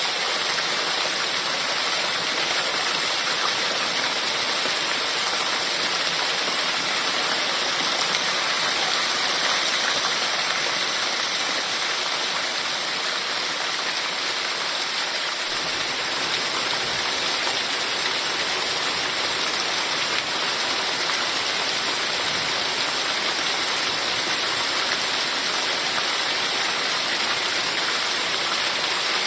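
Heavy rain falling steadily, a dense, even hiss. About halfway through, the sound turns fuller and deeper.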